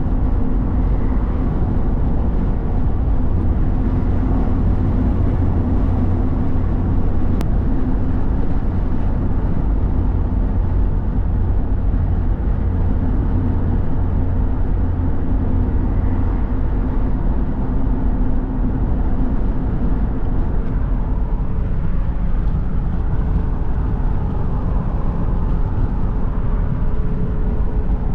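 A car being driven at a steady pace: a continuous low engine and road rumble that holds level throughout.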